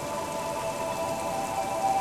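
Gentle rain falling steadily, with soft ambient music of long held tones layered over it. The held notes change to a new chord right at the start.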